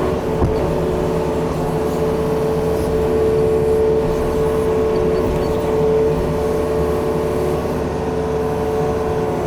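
Yanmar diesel engine of a small excavator running steadily under load as the machine digs with its rake attachment. A brief knock comes about half a second in.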